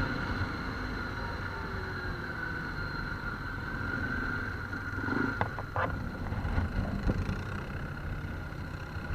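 An ATV engine running steadily, with a few short knocks about five seconds in.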